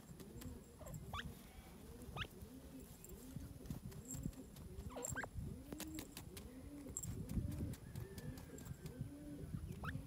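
Birds calling: a steady run of soft, low arching calls about one or two a second, with a few short, high rising chirps over them.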